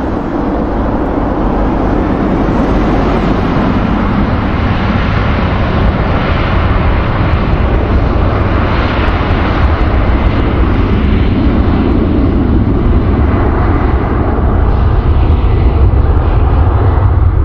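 Jet airliner engines, a loud steady noise with heavy low rumble that grows slightly louder toward the end.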